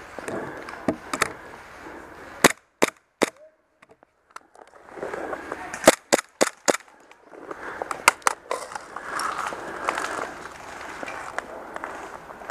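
Airsoft guns firing sharp snapping shots in short strings. Three shots come about two and a half seconds in, a quick string of five follows around six seconds, and three more come around eight seconds, over a steady noisy background.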